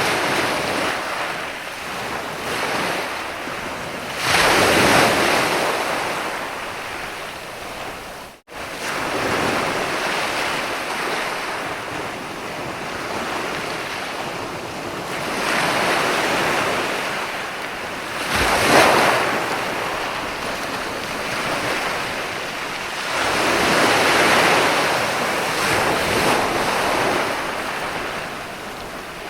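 Sea waves breaking and washing up a Mediterranean beach, each surge swelling and fading every several seconds, the sharpest one about nineteen seconds in. The sound cuts out for an instant about eight seconds in.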